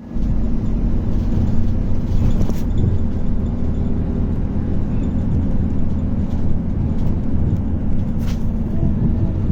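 Scania K280UB bus engine running at a steady, deep drone, recorded through a phone's microphone. Two brief clicks stand out, one a little before the third second and one near the end.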